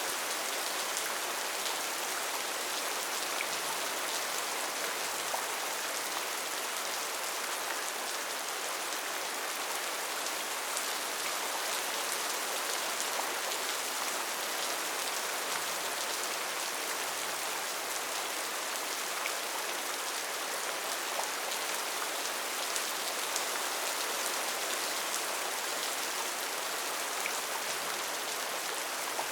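Steady rain falling on rainforest foliage, an even hiss with scattered individual drop ticks.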